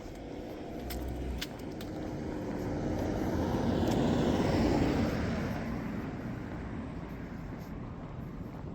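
A motor vehicle passing by, its engine and tyre noise swelling to loudest about four to five seconds in and then fading away.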